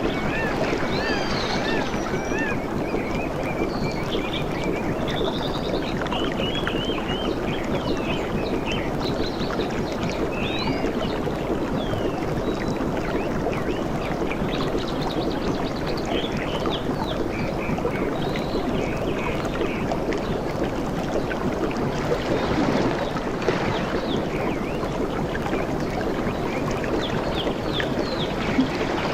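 Steady wash of ocean water with birds chirping over it, with many short rising and falling notes, busiest in the first half.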